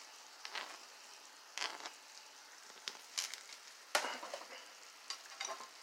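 Shrimp sizzling in a buttery skillet while being stirred: a steady faint sizzle with several scrapes and clinks of a utensil against the pan.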